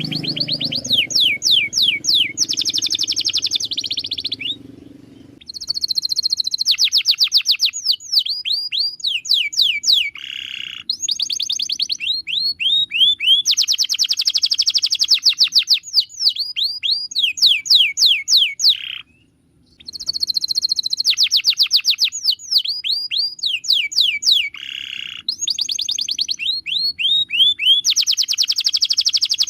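Domestic canary singing long phrases of rolling tours: each run a single sweeping or trilled note repeated many times a second, switching to a new note every second or two. The song breaks off briefly about five seconds in and again about nineteen seconds in.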